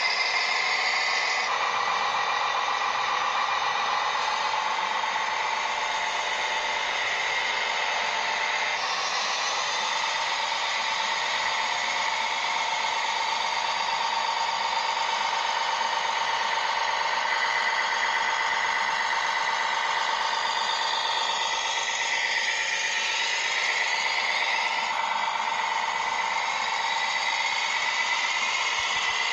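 Small electric motors and plastic gearboxes of a radio-controlled construction model whining steadily. The pitch changes a few times and glides up and down for a few seconds past the middle as the motors change speed.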